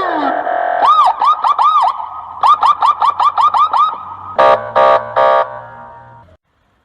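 Electronic police siren: the end of a falling sweep and a short steady tone, then quick rising-and-falling chirps about five a second, then three short buzzy horn blasts before it fades out.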